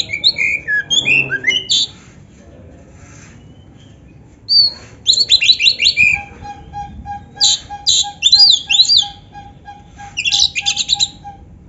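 Oriental magpie-robin (kacer) singing in loud phrases of rapid chirps, trills and whistled glides, with a quieter gap of a couple of seconds between phrases. Under the later phrases, a lower, even note pulses about four times a second.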